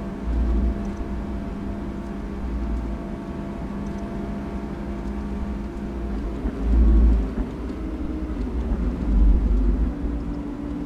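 Lamborghini Aventador SVJ's V12 engine, breathing through an aftermarket Brilliant exhaust, running steadily on the road, with a steady droning tone that shifts in pitch a little past halfway. Deep low rumbles swell several times, loudest about seven seconds in.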